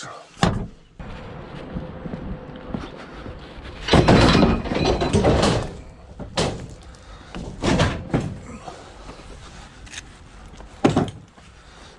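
Scrap being handled and loaded into a van: several separate thuds and bangs, with a longer, louder clattering stretch about four seconds in.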